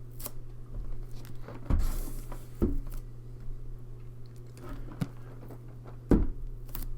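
A cardboard board-game box being handled and turned over, giving a few scattered knocks and light rustles over a steady low hum.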